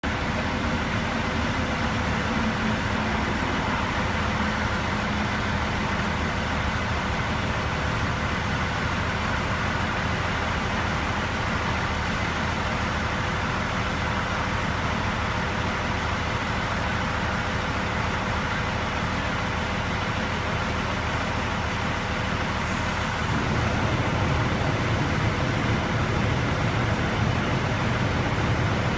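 Steady highway traffic and running vehicle engines, with a deeper engine rumble growing louder about 23 seconds in.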